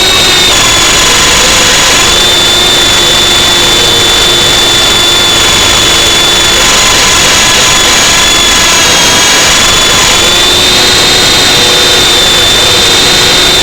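Electric motors of an F45 remote-controlled aircraft whining steadily in flight, the high pitch wavering slightly as the throttle shifts, over heavy wind buffeting on the microphone.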